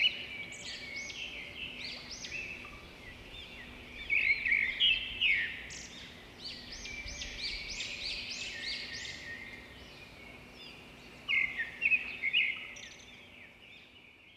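Several small birds chirping and twittering in quick, rising-and-falling notes, with louder flurries about four seconds in and again near eleven seconds; the birdsong fades out at the end.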